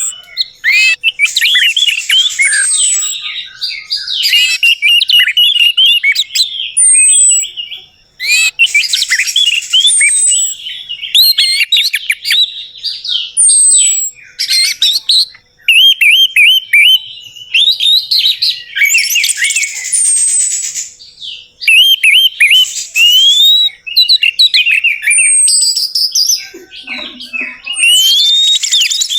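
Orange-headed thrush singing a loud, varied song of rapid whistled and chattering phrases, broken by short pauses. A brief, high, downslurred note recurs every few seconds.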